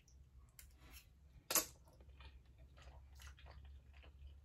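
Close-miked chewing and mouth sounds of someone eating, a series of soft clicks with one sharper click about a second and a half in, over a low steady hum.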